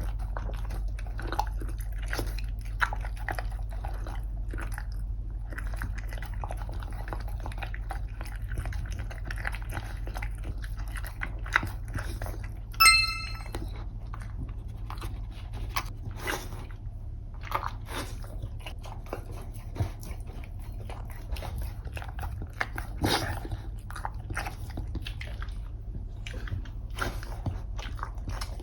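A chow chow eating, with repeated crunching and chewing of food over a steady low hum. About halfway through there is one brief high-pitched tone.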